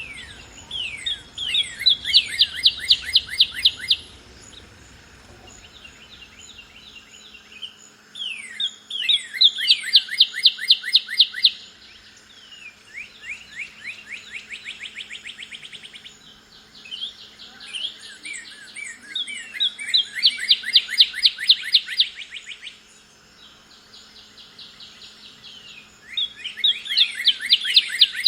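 Northern cardinal singing. Loud phrases of a few slurred whistles run into a fast, even trill, each about three seconds long and repeated roughly every eight or nine seconds. Softer phrases come in between, and faint, very high chirps sound above.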